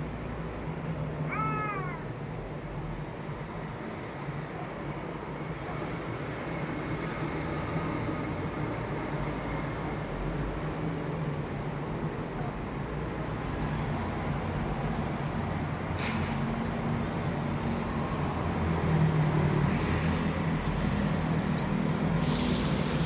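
A domestic cat meows once, about a second and a half in: a short call that rises and then falls in pitch. A steady low hum runs underneath.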